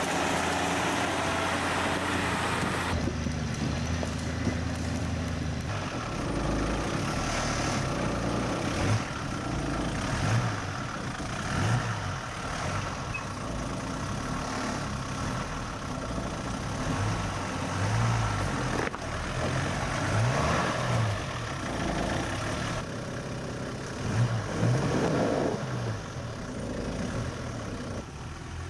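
Four-wheel-drive vehicle's engine running under load, with repeated short low thumps.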